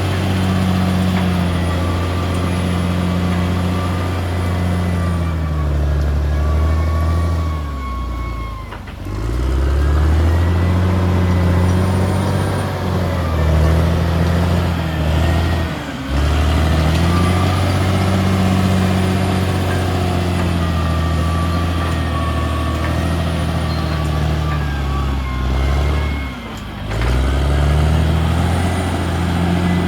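CAT D6R XL bulldozer's diesel engine running hard, its revs sagging sharply and recovering three times, and a thin high whine that comes and goes.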